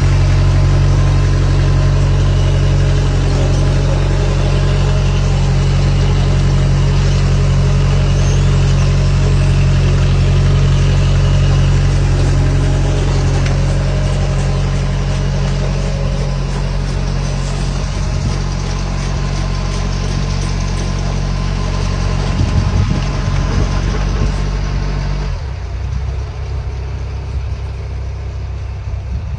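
A large engine running steadily at a constant speed. About 25 seconds in, its sound drops and changes.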